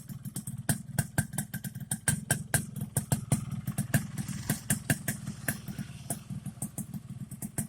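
Motorcycle engine idling through an MRP aftermarket exhaust: a low rumble broken by a rapid, uneven train of sharp exhaust pulses.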